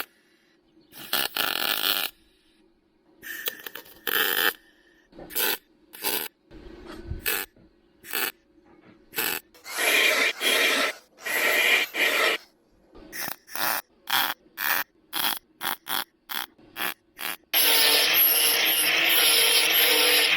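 Welder laying a string of short tack welds on a sheet-metal rust-repair patch, each a crackling burst under a second long with gaps between, then a longer continuous weld run near the end.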